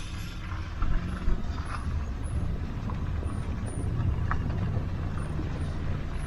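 Vehicle driving slowly with a steady low rumble, with a few brief knocks and rattles along the way.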